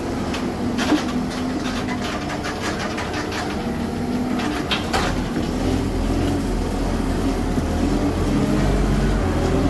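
Steady running of a vehicle engine with a scatter of sharp metallic knocks and clanks in the first half. Around the middle the engine grows deeper and louder, as if working under load.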